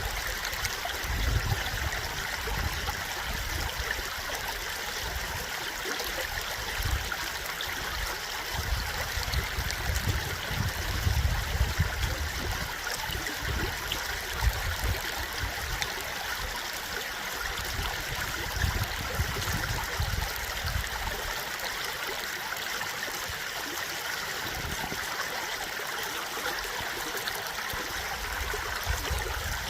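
Flowing stream water, a steady rush and trickle, with a low rumble that swells and fades every few seconds.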